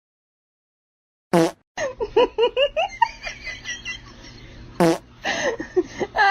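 A second of silence, then a loud brief burst followed by quick, high-pitched laughing, with another loud burst about two thirds of the way through.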